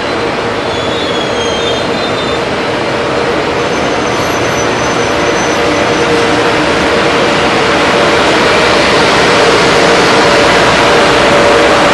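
FS Class E633 electric locomotive hauling a container freight train past at close range: a steady rolling rumble of wheels on rail with a steady hum, growing louder toward the end.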